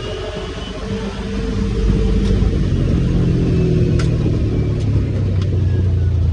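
Polaris RZR XP 1000 side-by-side's twin-cylinder engine running while driving on a trail, growing louder about two seconds in as it pulls harder. A few sharp clicks or knocks come through in the second half.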